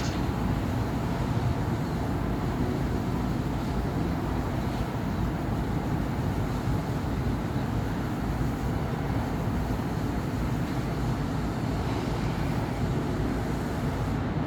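Steady city traffic noise: cars and buses passing in a continuous low rumble, with no single vehicle standing out.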